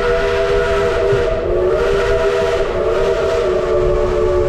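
Steam whistle of Shay No. 5, a geared logging locomotive, blowing one long chord of several tones over the low rumble of the train; the pitch dips slightly about a second and a half in. The long blast signals the train's approach to a former station stop.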